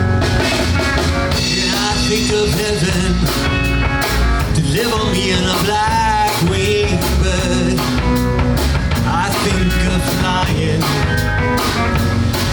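Live rock band playing a song's instrumental intro: electric guitar over bass and a steady drum-kit beat, with a bending, wavering note about halfway through.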